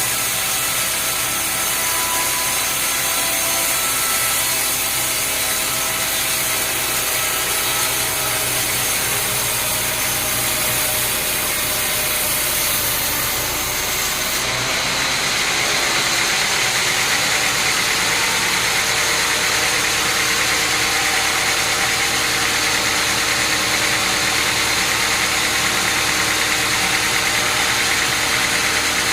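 Sawmill machinery running steadily with a continuous mechanical noise. About halfway through the sound changes abruptly to a slightly louder, brighter machine noise.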